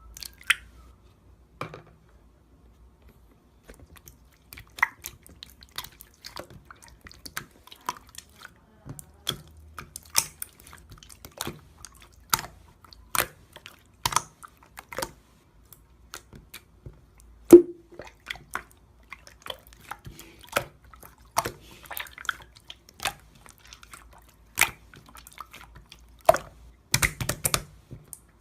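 Slime being squeezed and pressed by hand, giving irregular wet clicks and pops, about one or two a second, the loudest a little past the middle.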